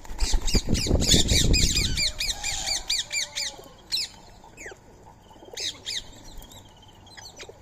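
Rose-ringed parakeets calling, a fast run of shrill repeated notes for about two seconds over a rush of flapping wings, then scattered calls.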